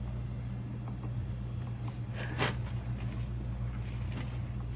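A steady low hum, with one short sharp click about two and a half seconds in.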